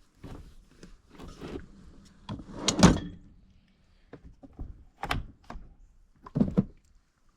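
Several knocks and clunks of objects being handled and set down, the loudest about three seconds in.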